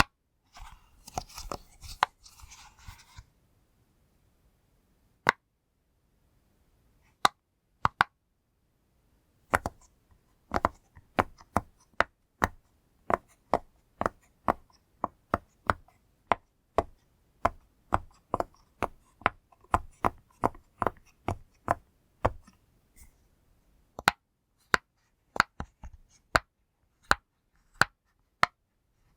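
Pop-it fidget toy's bubbles being pressed one by one, each a sharp pop, coming in runs of about two a second with a short pause in the middle. A brief rustle of handling near the start.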